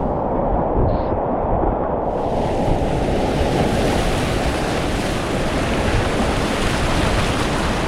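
Steady loud roar of big whitewater rapids, fast, pushy water heard close up from a kayak. For about the first two seconds the sound is muffled, with its hiss cut away.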